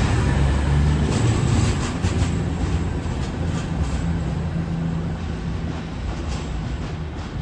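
Train running on the rails with a deep, steady low rumble and a few faint clicks, gradually getting quieter.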